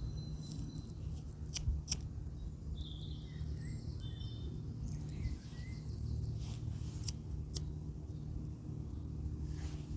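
Outdoor ambience: a steady low rumble, small birds chirping briefly about three seconds in, and a few sharp clicks.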